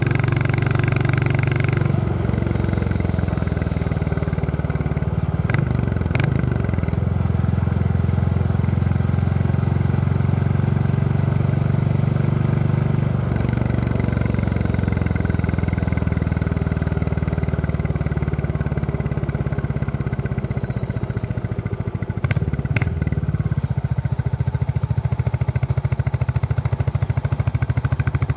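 Royal Enfield Classic 350's single-cylinder engine thumping steadily while riding. The engine note shifts in pitch a couple of times and briefly dips and recovers about six seconds and again about twenty-two seconds in.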